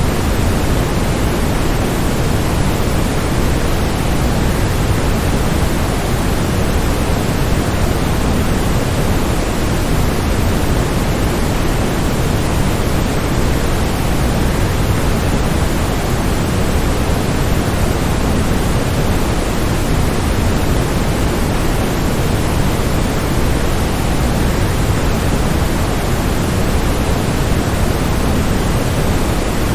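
Waterfall: a steady, unbroken rush of falling water, even throughout, with most of its weight in the low end.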